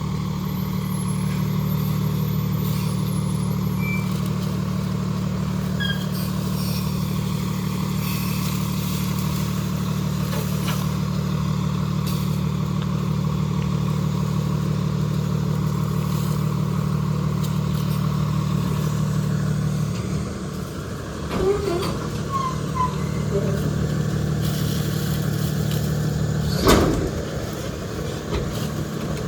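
Refuse truck's diesel engine running steadily, its drone loosening about two-thirds through. Brief knocks follow, and one loud sharp bang near the end.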